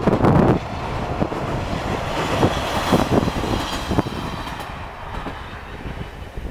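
A KiHa 40-series diesel railcar running over a steel girder bridge: a rumble with a few wheel clacks that fades as it moves away. Gusts of wind buffet the microphone near the start.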